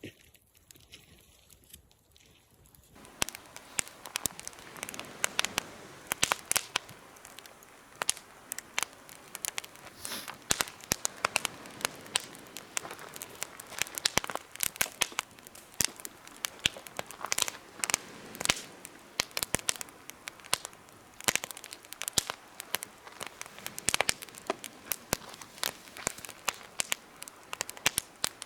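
Wood fire crackling and popping in a homemade campfire stand, with many sharp snaps over a low hiss. The crackling starts suddenly about three seconds in.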